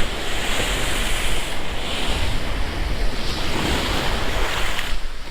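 Rough storm surf crashing and washing against a seawall, with wind buffeting the microphone in a low rumble. The hiss of the water eases off near the end.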